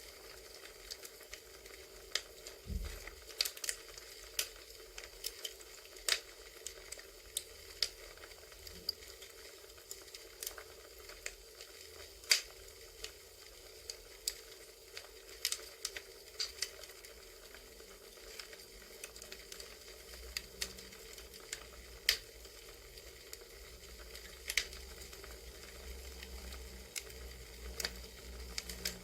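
Crackling campfire: irregular sharp pops and snaps of burning wood over a steady soft hiss, with one dull low knock about three seconds in.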